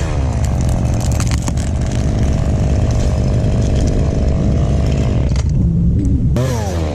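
Stihl chainsaw running at full throttle, dropping back about five and a half seconds in, then revving up and down again near the end.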